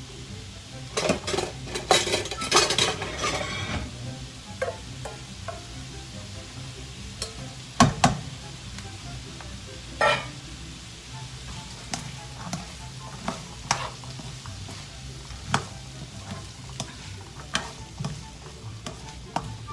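Food frying in a pan while a utensil stirs it, scraping and clicking against the pan: a busy run of scraping about a second in, then scattered single knocks. The food is close to browning.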